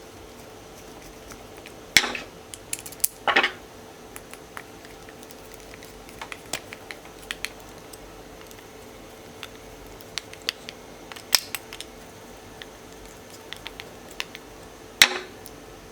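Scattered metallic clicks and clinks from reel parts and tools being handled during reassembly of a Penn Senator fishing reel, with a few louder clinks at irregular intervals over a faint steady hum.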